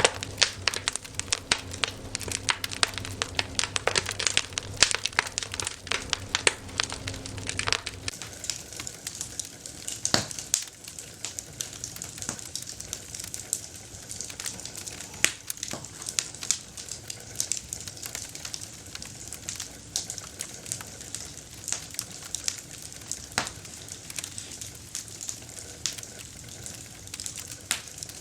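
Wood campfire crackling and popping. The crackles come thick and fast for about the first eight seconds, with a faint low hum underneath. After that they thin out into scattered sharp pops over a steady hiss.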